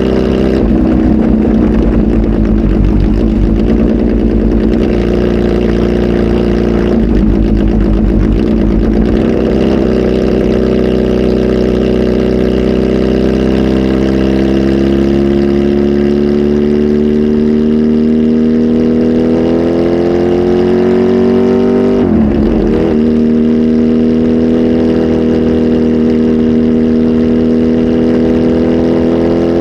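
Kawasaki Z H2 SE motorcycle's supercharged inline-four engine, flash tuned and breathing through a full exhaust system, running steadily. Its note climbs slowly in pitch through the middle, dips briefly about two-thirds of the way in, then holds steady.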